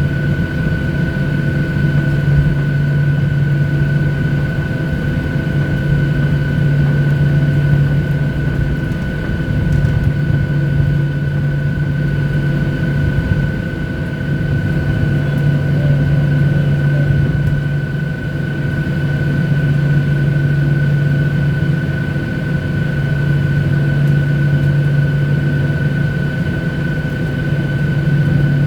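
Boeing 737-800 airliner heard from inside the passenger cabin: a steady engine drone, a low hum with a steady high whine over it, swelling and easing slightly in loudness without changing pitch.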